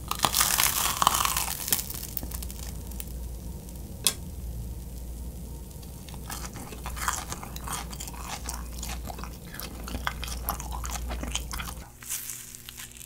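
Close-miked biting and chewing of grilled kirimochi (Japanese rice cake). A loud bite comes right at the start, a sharp click about four seconds in, then a run of fast, crackly chewing noises that die down near the end.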